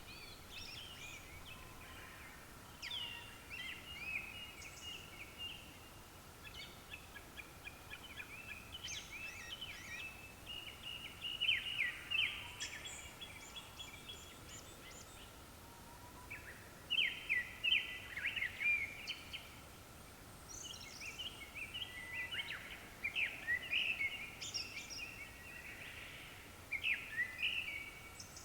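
Japanese thrushes singing: repeated short phrases of varied whistles and chatter, coming in bursts with short pauses between them. A faint steady high tone runs underneath.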